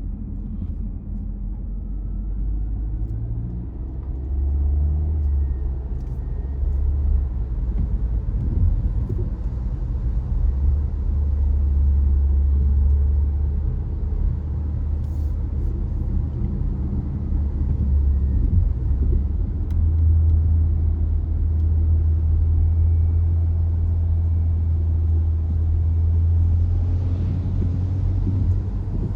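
Low rumble of a car driving along a road, engine and tyre noise, swelling and easing a few times.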